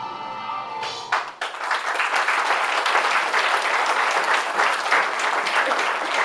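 Music stops about a second in, and an audience breaks into applause that carries on steadily.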